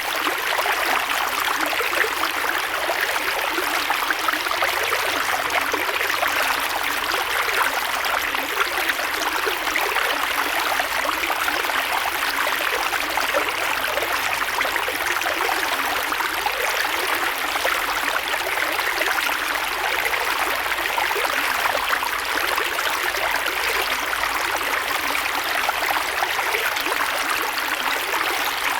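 Creek water flowing steadily over stones, a continuous rushing and babbling with no breaks.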